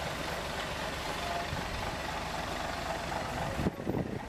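Bus engine idling under a steady rush of noise. About three and a half seconds in, the sound changes abruptly and a few short knocks follow.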